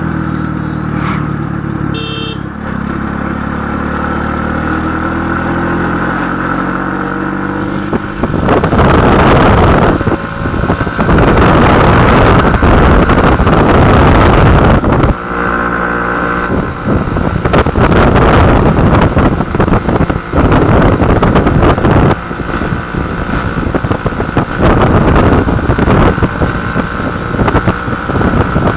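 A motor vehicle's engine running steadily. About eight seconds in, loud wind noise on the microphone takes over and keeps going, with brief dips.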